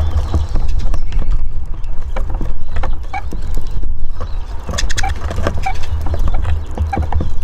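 Eurasian siskins at a wooden balcony bird house, pecking and hopping: a dense run of quick irregular taps and clicks, with a few short pitched chirps in the second half, over a steady low rumble.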